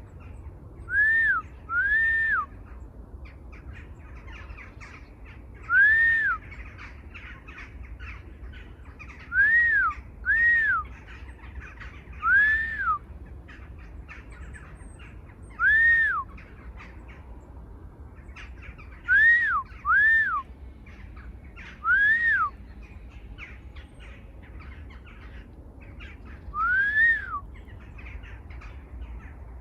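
A bird giving loud, clear calls that rise and fall in pitch, each about half a second long, singly or in quick pairs every few seconds. Faint twittering and ticking from other small birds runs underneath.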